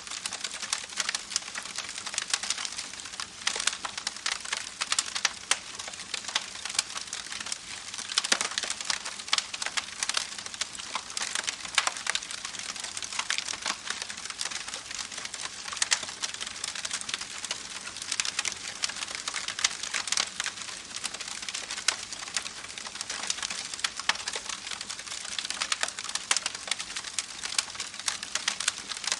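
Campfire crackling steadily: a dense stream of small snaps and pops, with a few louder ones scattered through.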